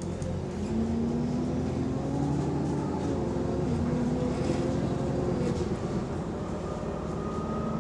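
Diesel engine of a London bus, Go-Ahead London E273, heard from inside while driving. The engine note rises about a second in and then goes up and down as the bus speeds and slows. The bus has a small exhaust leak.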